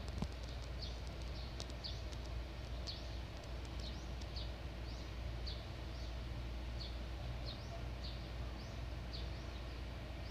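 A bird chirping: short high chirps, irregularly about twice a second, over a steady low background rumble.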